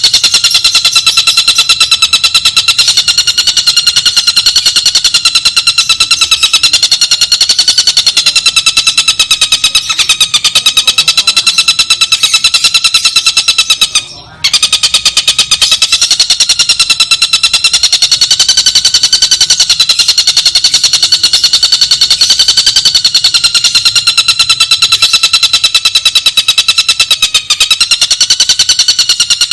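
A bird's fast, buzzing trill, held unbroken at a steady, slightly wavering pitch, with one brief break about halfway through.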